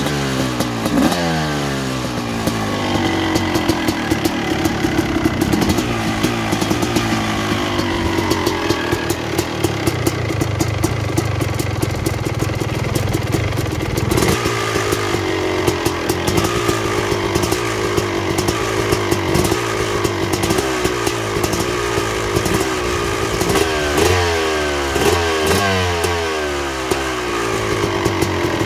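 2006 Suzuki RM250 two-stroke motocross engine with an FMF Gnarly expansion pipe running after its first cold start in 20 months, blipped up and down a few times near the start and again near the end, running steadily in between. It fired on the second kick and runs cleanly, with no sign of blocked jets.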